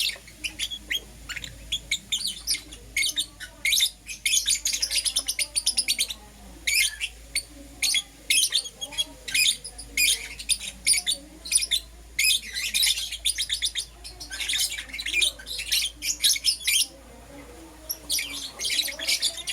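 Lovebirds chirping in fast, dense runs of short, shrill high chirps, with a brief lull near the end.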